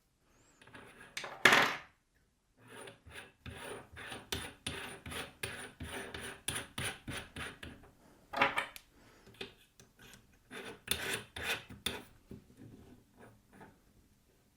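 Keyed drill chuck of a Parkside pillar drill being turned with its chuck key to fit and tighten a drill bit: quick repeated clicking and rasping of the key's gear teeth against the chuck, with a single louder knock a little over a second in.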